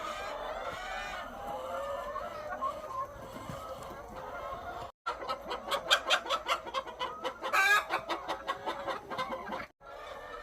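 Many laying hens clucking and cackling, the calls growing denser and louder in the second half, with one loud call about three-quarters of the way through. The sound drops out twice, briefly.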